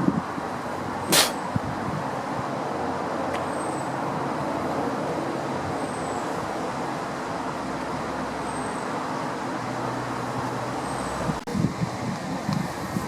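Steady rumble of a passing vehicle with a faint steady hum underneath. A sharp click comes about a second in, and the sound changes abruptly near the end, with a few thumps.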